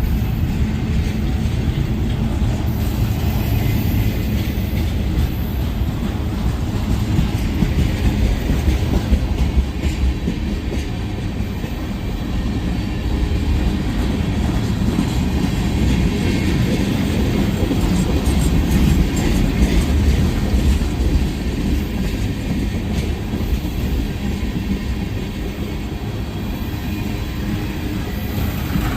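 Freight train cars rolling past, a steady rumble and clatter of steel wheels on the rails.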